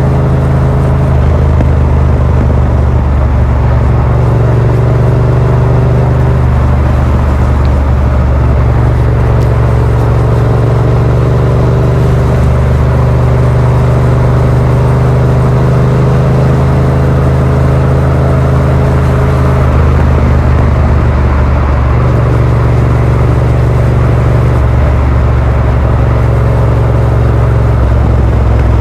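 Yamaha MT-07's 689 cc parallel-twin engine running through a Yoshimura R77 exhaust with the dB killer fitted, heard while riding. The engine note holds steady, then shifts in pitch several times as the revs change.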